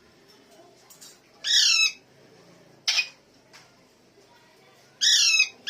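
Parrot squawking: two loud harsh calls of about half a second each, falling in pitch, about a second and a half in and near the end, with a short sharp shriek in between.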